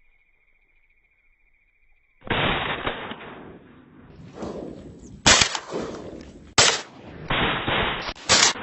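Three loud gun bangs from hunting guns, spaced a second or more apart, over rough, wind-like noise. A faint steady high tone runs for the first two seconds.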